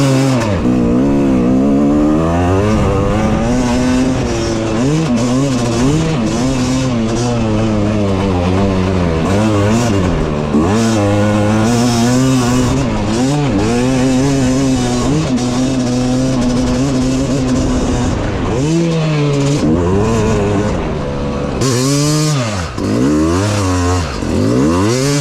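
Yamaha YZ250X two-stroke single-cylinder dirt bike engine being ridden hard, revving up and falling off again and again. Several quick sharp drops and rises come in the last few seconds.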